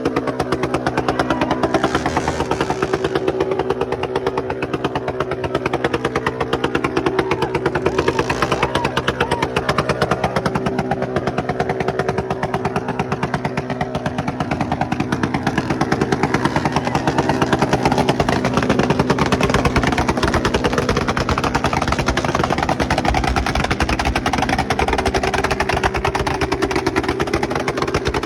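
Motorcycle engine running steadily with a fast, even pulsing beat. Its held tone fades back in the middle of the stretch and comes up again near the end.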